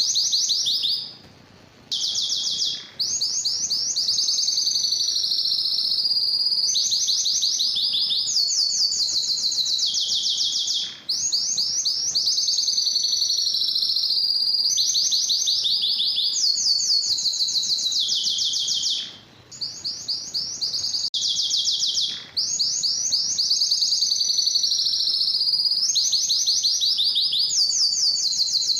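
Canary singing a long song of fast trills, each phrase a rapid run of one repeated note before switching to another every second or two, with a few brief pauses.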